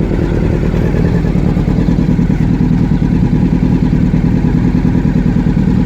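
Motorcycle engine running steadily at idle just after carburettor tuning with a refitted homemade airbox; the tune sounds okay.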